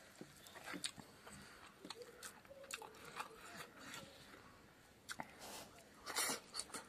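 Faint close-up eating sounds: chewing, lip smacks and small clicks of a man eating rice and pork fat by hand. Near the end comes a louder, crisper bite as he bites into a slice of cucumber.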